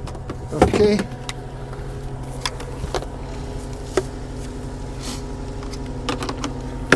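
BMW 750Li's N63 twin-turbo V8 idling steadily, a sound the owner calls bad. A few light clicks and knocks are heard over it.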